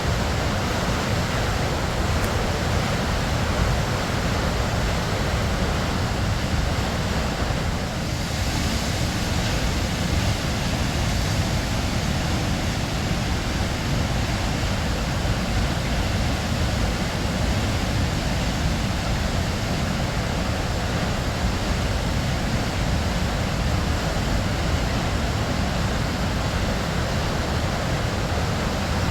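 Waterfall: a steady rush of falling water crashing into a pool, a deep, even roar with no breaks.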